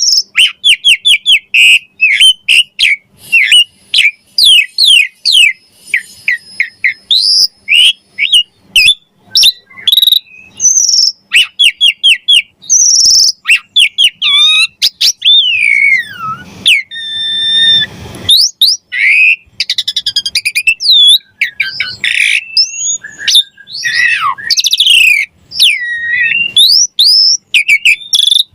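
Asian pied starling singing a fast, varied song: runs of quick repeated chirps broken by whistled glides and a few longer held notes.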